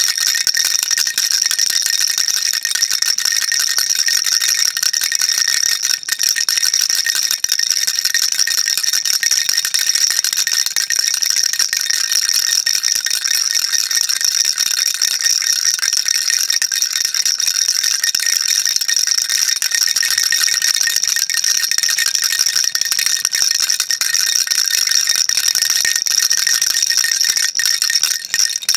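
Baby rattle shaken continuously: a dense, steady, bright rattling with only a few momentary breaks.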